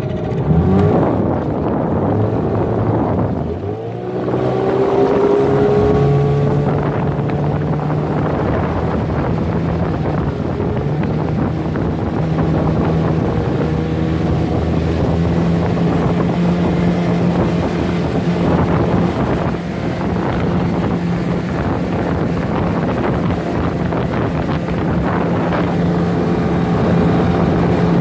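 15-horsepower boat engine running under way. It picks up revs with a rising pitch about four seconds in, then runs steadily at speed.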